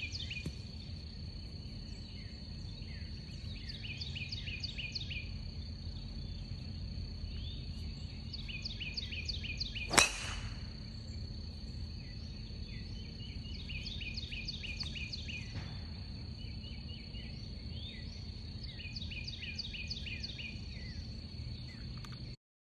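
A single sharp crack of a Ping driver striking a golf ball about ten seconds in. Around it a bird sings several bursts of quick repeated chirps, and a steady high-pitched hum runs underneath.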